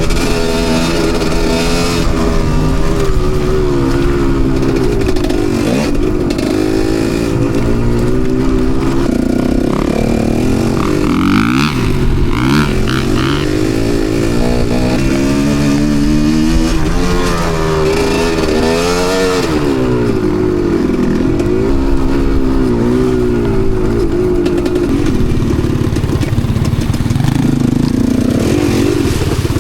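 Enduro dirt bike engine being ridden hard off-road, its revs rising and falling over and over as the throttle is worked.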